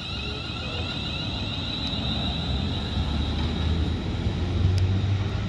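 Class 350 Desiro electric multiple unit pulling away from the platform: a steady high whine from the traction equipment over a low rumble that grows gradually louder as the train gets under way.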